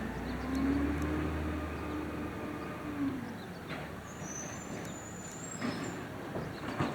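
Automated side-loader garbage truck working, its engine rumbling up and easing off with a humming tone that rises and falls over about three seconds, followed by a few sharp metallic knocks.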